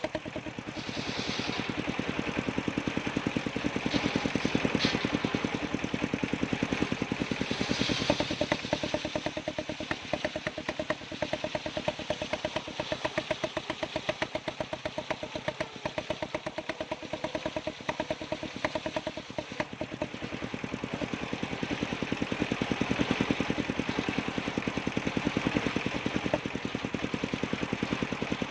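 Engine of a circular sawmill running steadily with a fast, even beat, with a few short higher-pitched spells as the blade saws through sengon wood.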